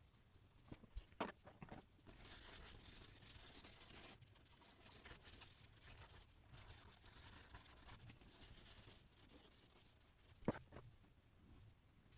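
Faint scratching of a drawing tool stroked across paper in long strokes, from about two seconds in. A sharp tap comes near the start and a louder one near the end.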